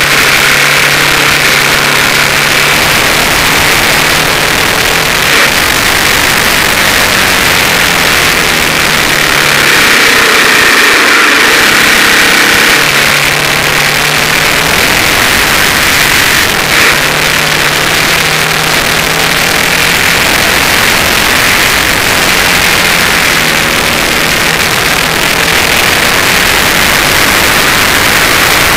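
Suzuki TL1000S's 90-degree V-twin engine running at speed, its note shifting in pitch and coming and going under a loud, steady rush of wind on the side-mounted camera.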